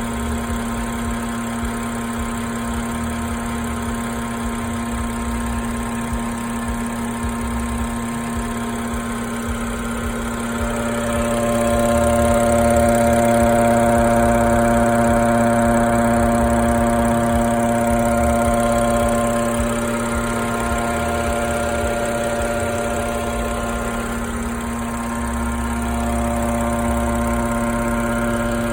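BMW F10's N55 turbocharged straight-six running steadily with a constant buzz. The buzz swells louder for several seconds in the middle, then settles back.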